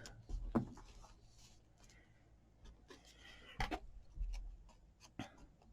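Paper being rubbed and pressed down by hand onto a journal page, faint scratching and rustling with a few light taps.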